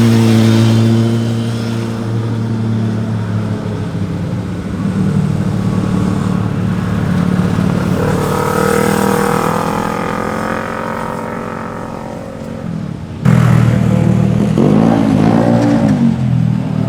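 Sport motorcycle engines and exhausts passing and revving, with the engine note climbing as a bike accelerates through the gears. About thirteen seconds in, the sound jumps abruptly to a louder bike whose engine note rises and falls quickly in throttle blips.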